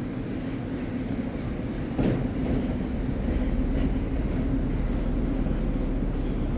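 Sapsan high-speed electric train pulling into the platform, its carriages rolling past with a steady low rumble and hum, and a single clack about two seconds in.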